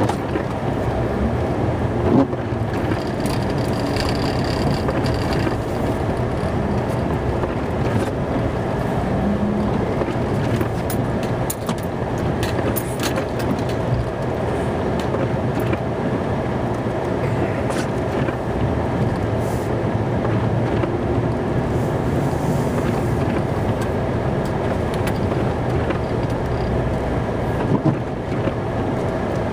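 Snow-plow truck's engine running steadily, heard from inside the cab, with a few scattered clicks and knocks.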